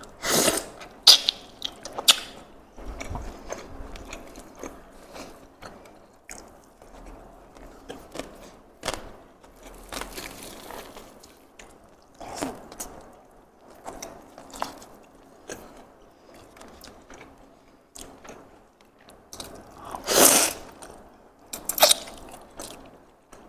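Close-up eating sounds: biting into and chewing fried chicken and beef on the bone, with crunching and wet mouth noises at irregular intervals. The loudest bites come about a second in and twice near the end.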